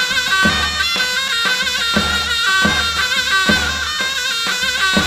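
Background folk music: an ornamented, wavering melody over a steady held drone, with a regular drum beat.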